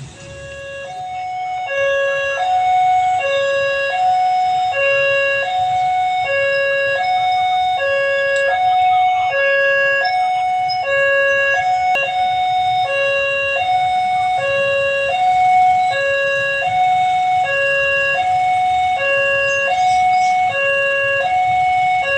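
Electronic railway level crossing alarm sounding: two tones alternate high-low about once a second, steadily and without a change in pitch, warning that a train is approaching the crossing.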